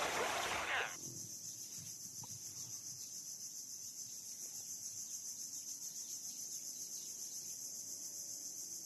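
Steady high-pitched insect chirring, like crickets, as a continuous background drone. The louder tail of a preceding sound dies away about a second in.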